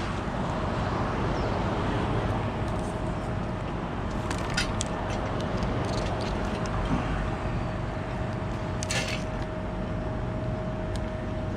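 Steady engine running with a thin constant whine over a low hum, as from a bucket truck idling to power its boom, with a few sharp clicks about four and a half and nine seconds in.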